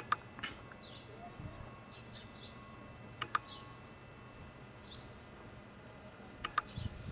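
Faint birds chirping in the background, with a few sharp clicks coming in pairs near the start, in the middle and near the end.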